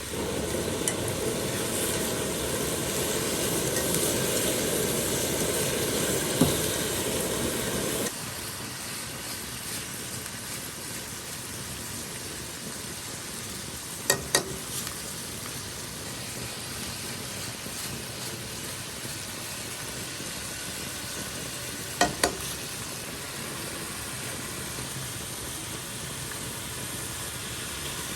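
Food sizzling as it fries in a hot pan for the hotpot base. It is louder for about the first eight seconds, then drops suddenly to a quieter, steady sizzle, with a few sharp clicks later on.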